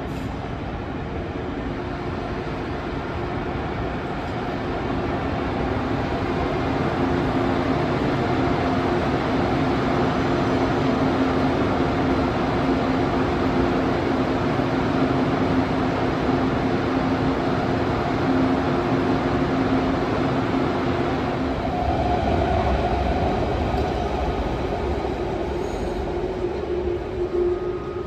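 ICE 2 high-speed electric train arriving at a station platform. It gives a steady electric hum at an even pitch over the noise of wheels and running gear, growing louder over the first several seconds.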